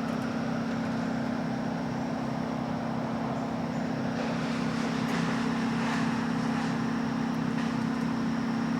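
A steady engine running: a constant low hum with a broad rush over it that grows a little louder in the second half.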